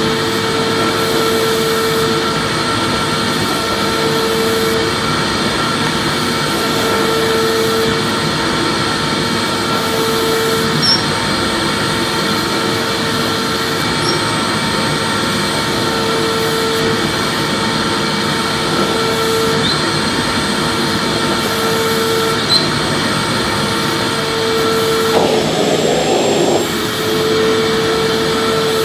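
Vacuum cleaner motor running steadily: an even rushing whine with a hum that comes and goes every couple of seconds.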